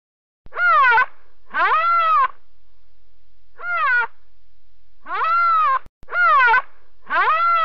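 Rhinoceros giving a series of high-pitched squealing calls, about six in all, each lasting around half a second and rising then falling in pitch.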